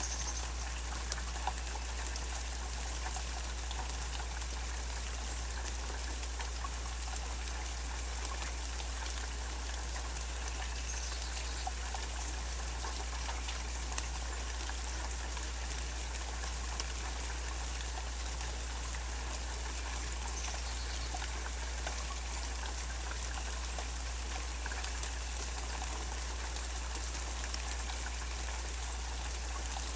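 Steady rain falling, with scattered individual drops ticking over an even hiss.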